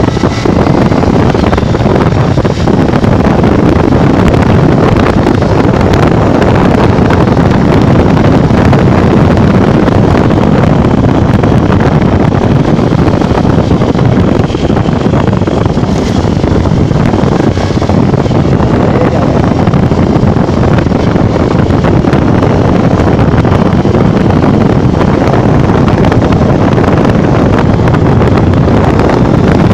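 Steady, loud wind buffeting on the microphone of a Honda Bros 150 motorcycle riding at speed on the highway, with the bike's running and road noise mixed in underneath.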